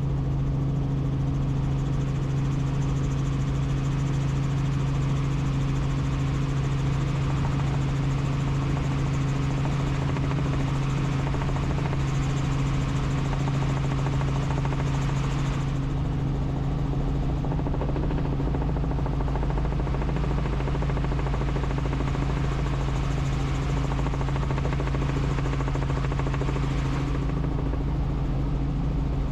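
Helicopter in flight: the steady drone of rotor and engine, a constant low hum that holds one pitch, with rumble beneath and a light hiss above.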